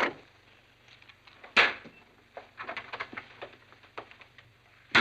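Door sounds: a sharp knock at the start and a louder bang about a second and a half in, a run of light clicks like footsteps, then another loud bang at the very end.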